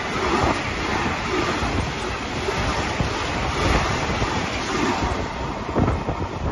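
Container freight train rolling past close by, a steady rumble and rattle of wagon wheels on the rails, with wind buffeting the microphone. Near the end the last wagon goes by and the rail noise thins, leaving low wind thumps.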